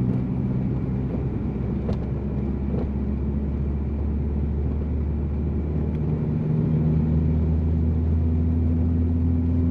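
A turbocharged VW Jetta driving on a snowy road, heard from inside the car: a steady low engine drone with road and tyre noise. It gets a little louder and shifts in pitch about six and a half seconds in.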